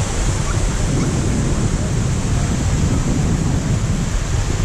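A waterfall's falling water, a steady rush.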